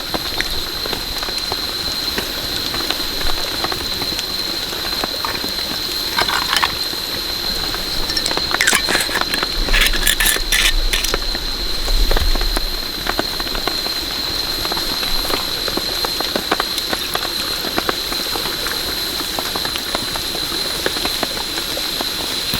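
Steady rain patter mixed with small crackles, with a steady high tone behind it. A few brief louder rustles or knocks come about a third to halfway through.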